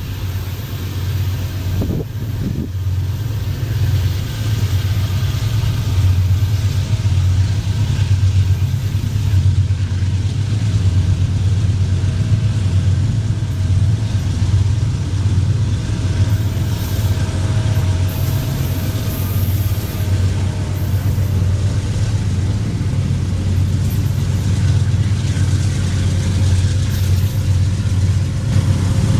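Diesel freight locomotive engine running with a steady low rumble that grows louder over the first few seconds, then holds.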